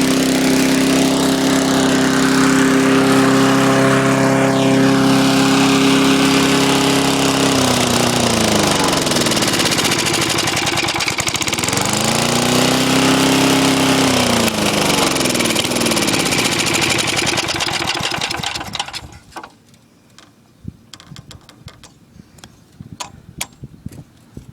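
Small single-cylinder lawn tractor engine running at speed. Its pitch sags, picks back up, then sags again as it slows, and it stops about 19 seconds in. Scattered light clicks follow.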